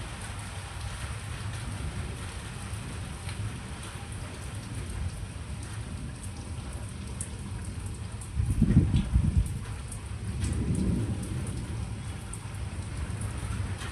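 Steady rain falling, with drops ticking, and thunder rumbling twice in quick succession about two-thirds of the way through, the second roll lower in level.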